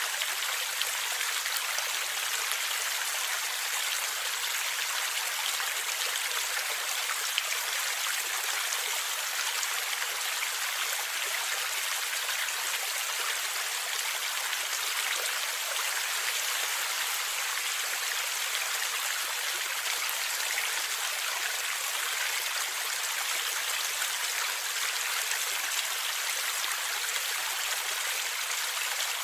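Stream water flowing and gurgling steadily, an even rushing hiss with little low rumble.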